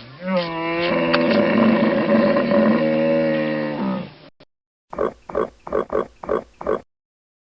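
A cow mooing: one long call that rises briefly at the start and is then held steady for about three and a half seconds. After a short gap, a different animal call comes as seven quick, evenly spaced pulses, about four a second.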